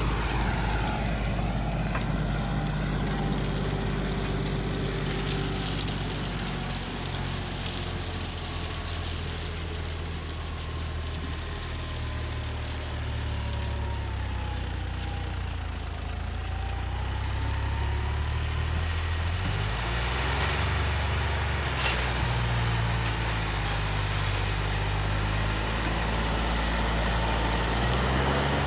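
Tractor diesel engine working hard while pulling a pair of disc harrows, a steady low drone whose pitch dips and picks up again about two-thirds of the way through.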